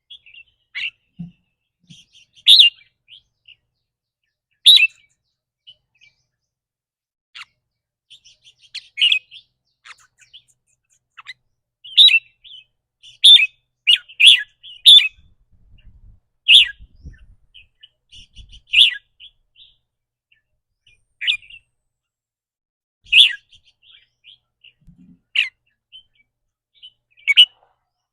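Red-whiskered bulbul giving short, sharp 'rik' calls at irregular intervals, with a quicker run of them about halfway through.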